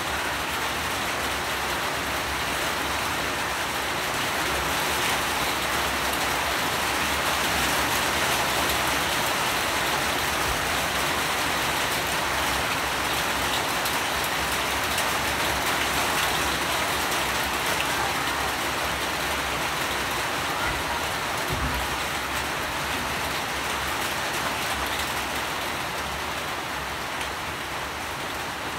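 Steady rain falling: an even hiss of many drops, a little heavier through the middle. A single low thump about three-quarters of the way through.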